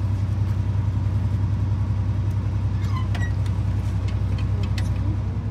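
Steady low hum and rumble of a passenger train, heard from inside the carriage.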